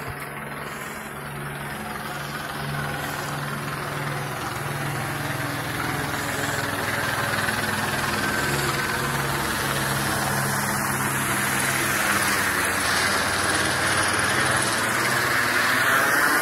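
A steady engine drone that grows gradually louder.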